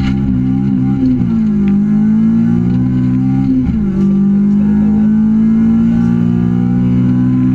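Honda Civic rally car's engine heard from inside the cabin, accelerating hard through the gears: the pitch climbs, drops quickly at an upshift about a second in, climbs again and drops at a second upshift nearly four seconds in, then holds almost level.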